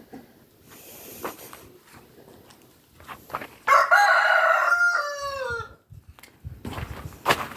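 A rooster crowing once, a loud call of about two seconds that starts roughly halfway in and drops in pitch at its tail.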